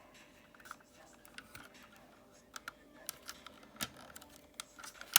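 Hard plastic parts of a transforming toy mixer truck clicking and rattling as they are handled and pressed into place: a scatter of small irregular clicks, the sharpest about four seconds in.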